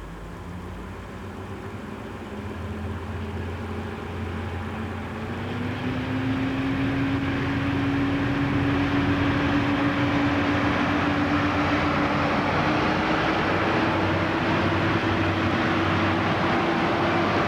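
KiHa 58 diesel railcar's DMH17H diesel engines pulling away from a standstill. The engine note rises slowly in pitch and grows louder over the first several seconds, then holds steady under power.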